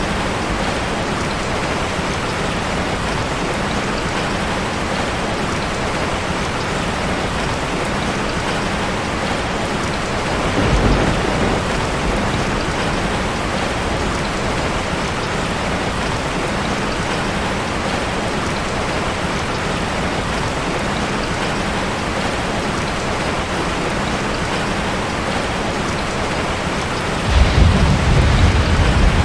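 Steady rain drumming on a metal roof. A brief low rumble swells about a third of the way through, and a louder one begins near the end.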